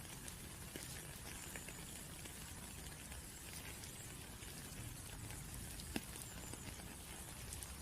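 Steady patter of raindrops, with many faint scattered drips and one sharper drop about six seconds in.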